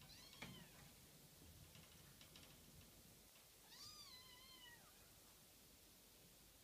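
Kitten meowing faintly: a short, high, falling mew just after the start, then a longer, wavering mew about four seconds in, with a few faint ticks between.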